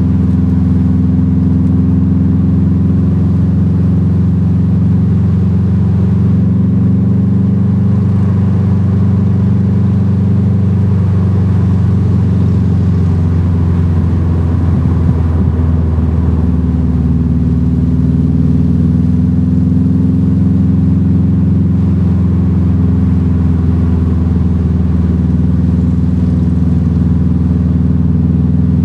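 Car engine heard from inside the cabin while driving, running at steady revs over road noise. Its pitch dips a little past the middle and climbs back as the car slows and picks up speed through the curves.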